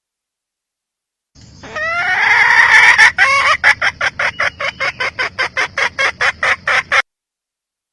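Red junglefowl hen cackling: a few drawn-out rising notes, then a fast run of sharp clucks at about four or five a second that stops abruptly.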